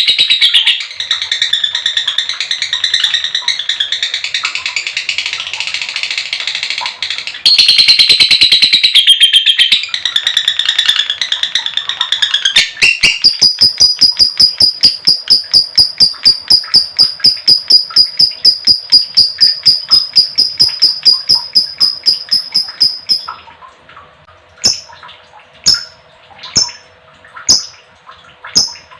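Lovebirds chattering shrilly for about twelve seconds, then a long run of rapid, evenly spaced high chirps, about four a second, for some ten seconds: the long 'ngekek' trill of a female lovebird. Near the end it slows to single chirps about a second apart.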